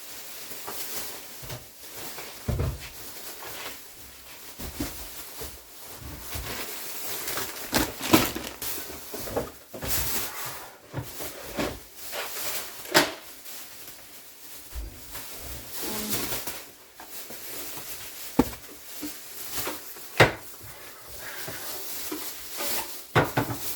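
Household handling noise: scattered sharp knocks and clicks with rustling as groceries are handled and set down in a kitchen.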